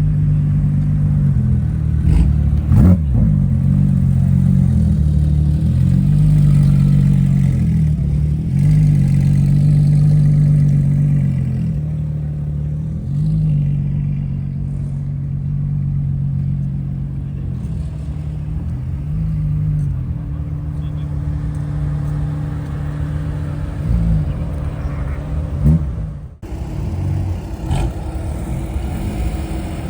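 Car engine running at low revs, its pitch rising and falling gently as the revs change, with a brief break about 26 seconds in.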